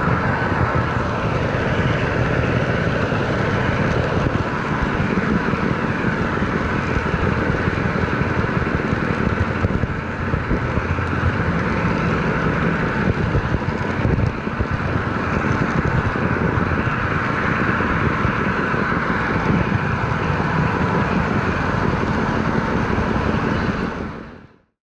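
Steady mechanical rumble of a running engine or vehicle, fading out shortly before the end.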